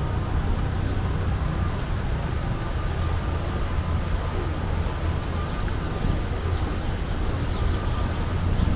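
Steady low rumble of a city street in a rainstorm, with no single event standing out.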